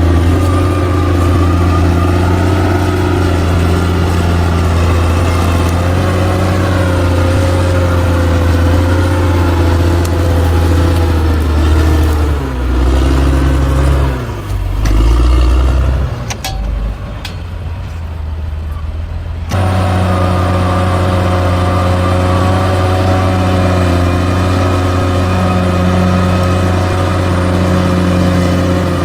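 Heavy construction machine's diesel engine running steadily under load. Its pitch shifts about halfway through, then the sound turns quieter and duller for a few seconds before the full engine drone comes back abruptly.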